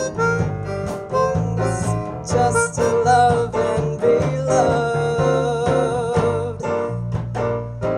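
Small band playing an instrumental passage: acoustic guitar chords under a wavering lead melody.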